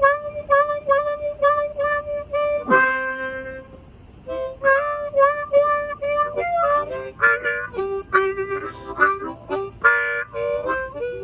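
Blues harmonica playing the introduction: a run of quick repeated notes, a held chord about three seconds in that bends down in pitch, a brief pause, then a busier phrase that steps downward.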